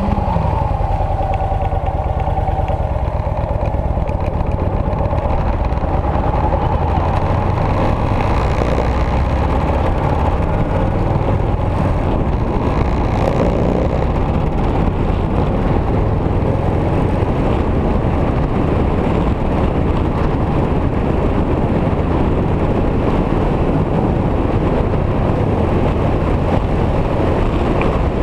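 Victory motorcycle's V-twin engine running steadily under way, mixed with heavy wind rumble on the microphone.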